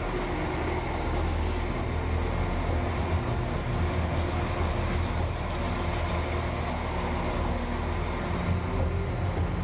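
West Midlands Railway class 196 diesel multiple unit running steadily, heard from inside a carriage: a continuous low engine drone under wheel and rail noise.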